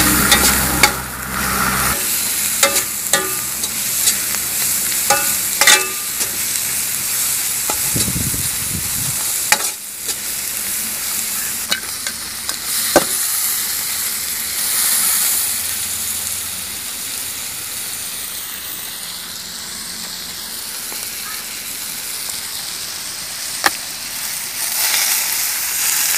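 Vegetables sizzling in hot oil in a black iron wok, with a metal spatula scraping and clicking against the pan now and then. About halfway through, cooked chicken pieces are tipped into the pan.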